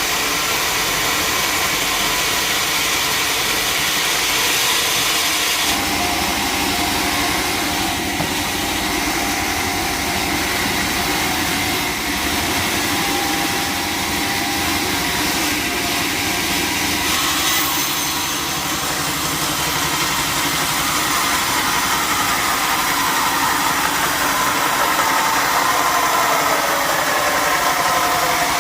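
Sawmill machinery running loudly and steadily, a mix of motor and saw noise. The sound shifts about six seconds in, and rising tones come in over the last several seconds.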